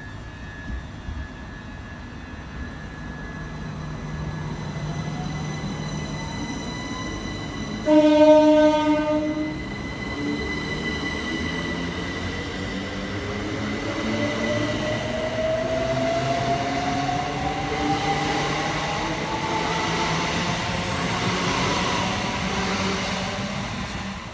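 Train sounding one short horn blast about eight seconds in, then running with a whine that rises steadily in pitch.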